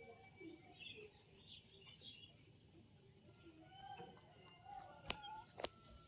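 Faint bird chirps and calls, with two sharp clicks near the end.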